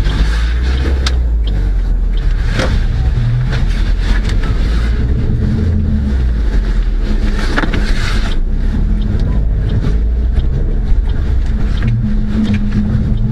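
Steady low rumble of a car's engine and cabin heard through a dashcam microphone, with scattered light clicks.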